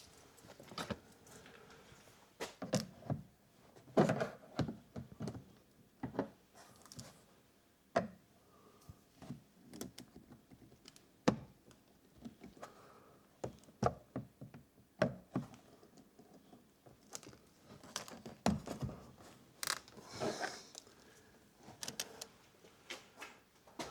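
Hard plastic trim being pried and worked at by hand, giving irregular clicks, knocks and taps as it resists coming off.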